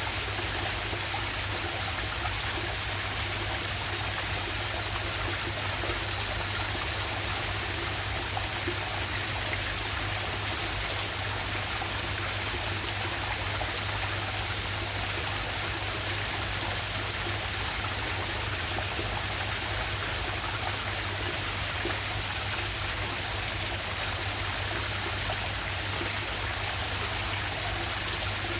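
Waterfall and stream water rushing steadily, an even, unbroken sound of flowing water.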